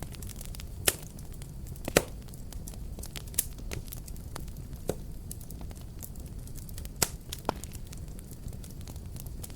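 Wood fire crackling: a steady low rumble of flame with scattered sharp pops, the loudest about two seconds in and again about seven seconds in.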